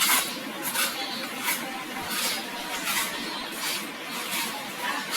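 Parrot eating, with a run of short, crisp crunching sounds about every 0.7 seconds as it bites and chews its food.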